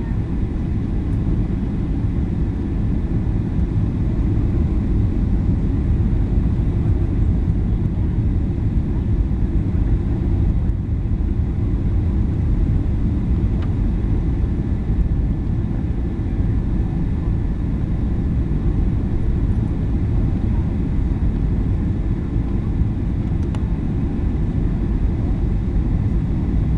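Steady low roar inside the passenger cabin of a Boeing 737-800 in flight on its approach: jet engines and airflow, with no change in loudness.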